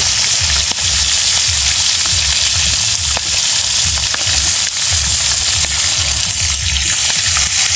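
Pieces of catfish sizzling steadily as they fry in hot oil in a metal wok, turned with a spatula and fork that scrape lightly on the pan. An uneven low rumble runs underneath.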